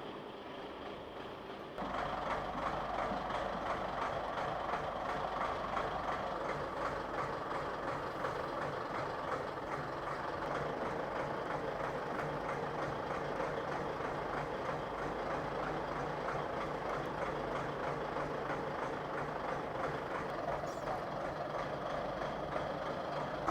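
Large 16-ton forklift running steadily while it works the lathe's weight on its forks, with a step up in engine noise about two seconds in.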